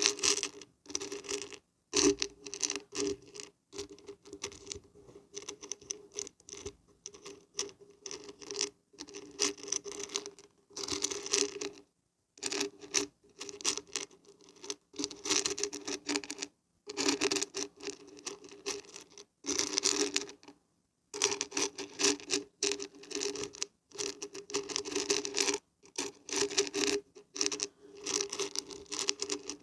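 Dried beans and barberries rattling and pattering as they are shaken, in irregular spells that stop briefly now and then.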